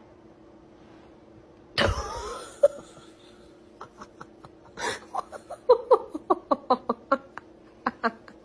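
A person laughing in a string of short, quick bursts, after a sudden loud burst of breath or a cough about two seconds in.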